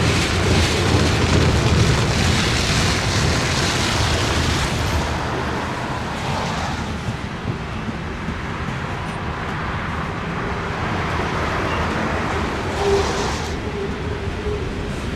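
Norfolk Southern loaded coal train passing, a steady heavy low rumble with a few steady tones from the diesel locomotives early on, easing somewhat about halfway through.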